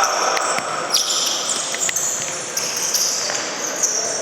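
Indoor futsal play: players' shoes squeaking on the court floor, with the ball struck a few times in sharp knocks.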